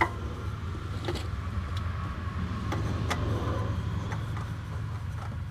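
A few light clicks and taps of parts being handled by hand, the sharpest right at the start, over a steady low hum.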